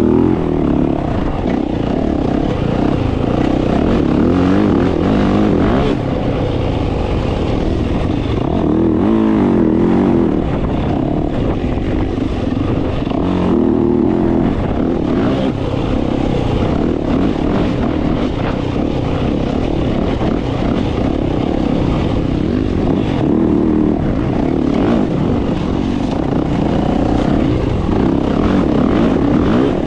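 Dirt bike engine running under load on a trail ride, its pitch rising and falling continually as the rider works the throttle.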